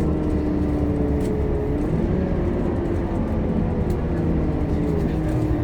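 Scania K230UB city bus's engine and drivetrain running under way: a steady drone with whining tones that dip slightly in pitch about two seconds in and again near the end.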